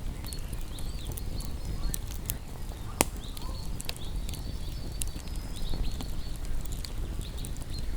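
Wood campfire crackling, with a low steady rumble of flame and scattered sharp pops, one much louder pop about three seconds in. A faint high chirping runs behind it.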